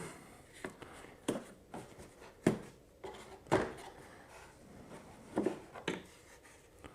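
A few light, scattered clicks and knocks of parts being handled, in keeping with the quad's airbox being opened.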